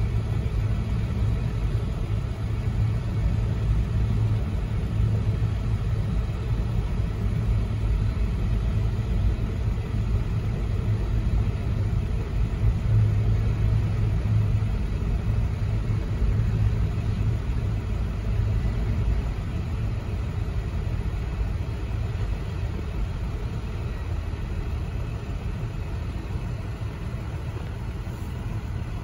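Union Pacific freight grain train rolling past a grade crossing: a steady low rumble heard from inside a car's cabin, easing off a little in the last third.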